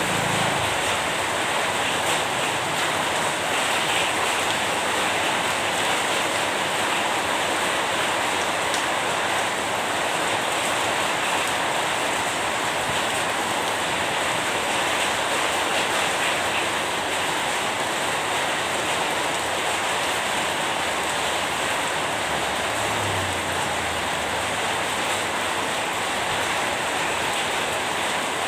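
Steady rain: an even, unbroken hiss of falling rain with no let-up.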